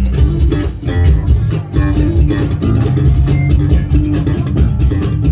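Live band playing an instrumental passage: guitars and bass guitar over a steady drum beat, with no singing.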